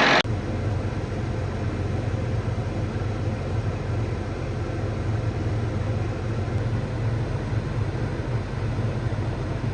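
Vehicle engine running with a steady low drone. Just after the start, a loud rushing noise cuts off abruptly.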